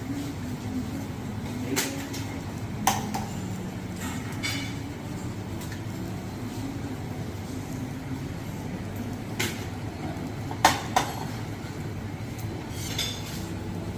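Dishes and cutlery clinking: about seven sharp clinks spread out, the loudest a close pair about two-thirds of the way through, over a steady low background hum.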